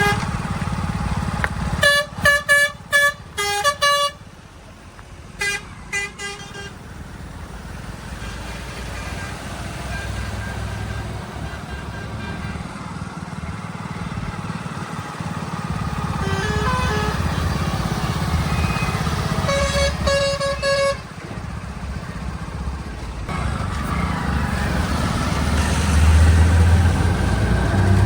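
Vehicle horns honking in clusters of short toots, a few seconds in and again about two-thirds through, some stepping in pitch like a musical horn. Underneath, the steady run of heavy vehicle engines grows louder near the end.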